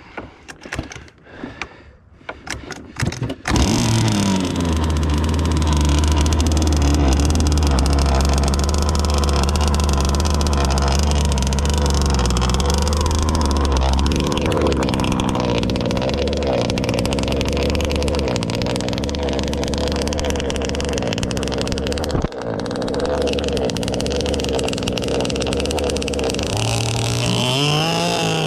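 Zenoah two-stroke gas engine of a Bonzi Enforcer RC boat. After a few short bursts it comes in about three and a half seconds in and runs steadily and loudly. Its pitch climbs near the end as it revs up.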